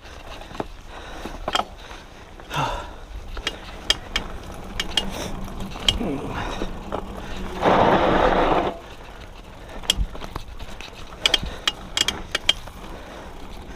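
Hardtail mountain bike ridden over a dirt trail: a scattered rattle of clicks and ticks from the drivetrain and rear hub ratchet, with a louder rush of noise lasting about a second just past the middle.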